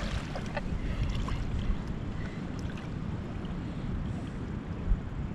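Steady low rumble of wind and water, with a few faint ticks and a single short knock near the end.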